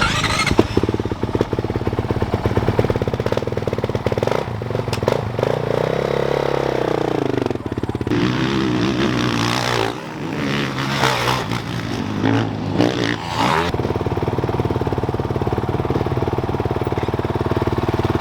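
Dirt bike engine running: steady at first, falling in pitch from about four seconds in, then revving up and down, and settling into a steady even run for the last few seconds.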